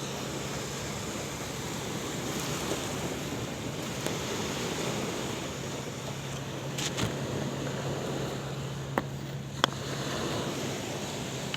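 Sea waves washing with wind, a steady noise over a low steady hum. Two sharp clicks come about nine seconds in.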